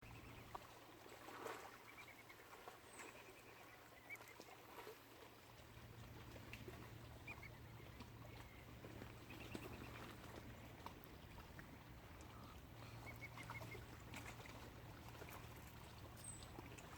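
Faint waterfowl calling: short notes now and then, some in quick runs of three or four, over a low steady hum.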